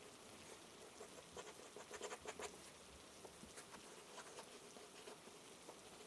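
Faint rain ambience: a soft, even hiss of rainfall with a patter of small drop taps, bunched together about two seconds in.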